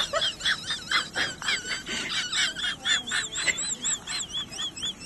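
Birds calling in a rapid run of short, high chirps and peeps, several a second, with some wavering, warbling notes from about halfway through.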